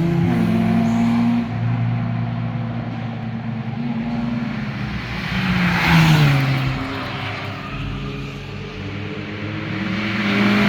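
Sports cars passing one after another under throttle, each engine note sliding down in pitch as it goes by. The loudest pass comes about six seconds in, and another car's engine builds near the end.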